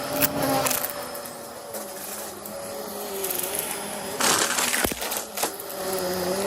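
Vacuum cleaner running, its motor hum wavering in pitch as it is pushed back and forth, with scattered clicks and a louder noisy burst about four seconds in.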